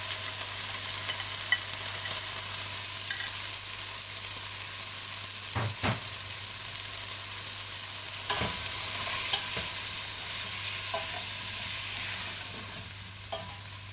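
Onions, drumstick and pumpkin sizzling in hot oil with freshly added masala powders, being stirred in the pan. There is a steady frying hiss, with a few knocks of the stirring utensil against the pan around the middle.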